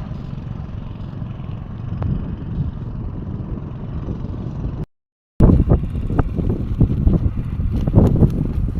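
Strong wind buffeting the microphone as a heavy low rumble. It is steadier at first; after a brief cut about five seconds in it comes louder and in gusts.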